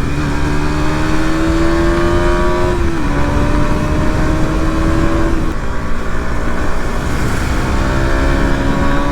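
KTM Duke 200's single-cylinder engine on its stock exhaust, accelerating hard through the gears: the pitch climbs steadily, drops sharply at an upshift about three seconds in and again a little past five seconds, then climbs again. Wind rumbles on the microphone throughout.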